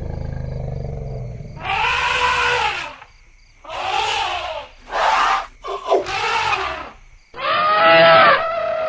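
Elephants calling: a low rumble for the first second or so, then a run of about five trumpeting, screaming calls, each around a second long, rising and falling in pitch.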